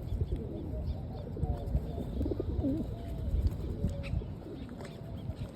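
Pigeons cooing, several calls overlapping, over a low rumble of wind or handling noise.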